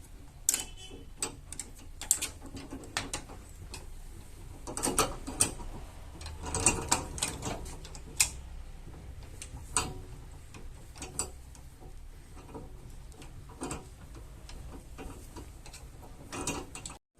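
Irregular metallic clicks and clanks of auto-body repair tools being worked, busiest about five to eight seconds in.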